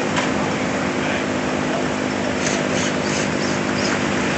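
Motorcycle engines running steadily, an even engine hum with no revving, with a few short high chirps about halfway through.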